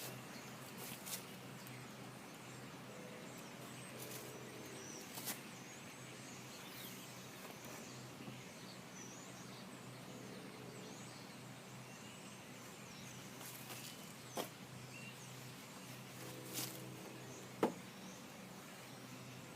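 Faint outdoor ambience with a steady low hum and small bird chirps, broken by a few sharp clicks near the end.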